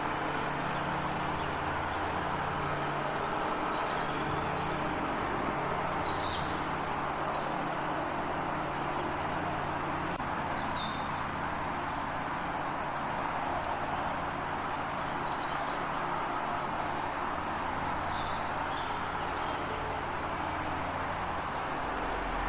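Small birds chirping in short, high calls, scattered every second or so, over a steady background of noise and a low hum.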